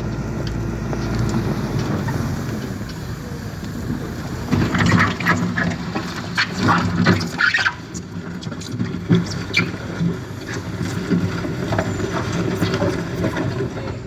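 Motor vehicle engine running steadily, with scattered clattering or distant voices over it about four to eight seconds in.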